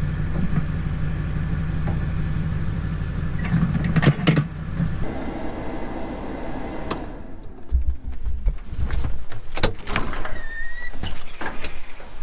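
Combine engine running steadily, then cutting out about seven seconds in, followed by several sharp clicks and knocks.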